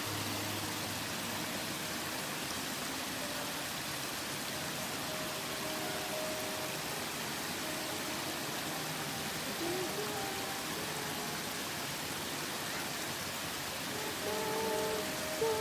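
Waterfall rushing with a steady, even roar of falling water. Faint held musical tones sound underneath and grow a little stronger near the end.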